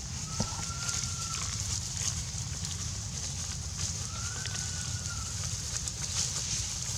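Forest ambience: a steady high hiss like insects, under a low rumble, with two long, even whistled calls a few seconds apart.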